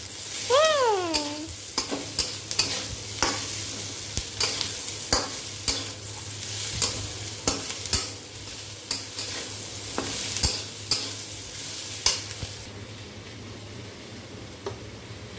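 Spatula stirring spiced vegetables frying in oil on high flame, with frequent sharp clicks and scrapes of the spatula against the pan over a steady sizzle. The stirring stops near the end, leaving only a fainter sizzle.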